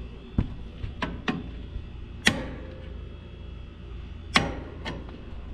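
Hand tools clicking and knocking against metal, six sharp hits with two louder ones, the first of them with a short ring, over a steady low hum.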